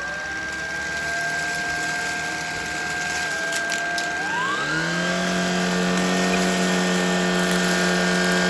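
Shark Vertex cordless stick vacuum running while it sucks up Fruity Pebbles cereal: a steady high motor whine that, about four seconds in, rises in pitch and gains a deeper hum.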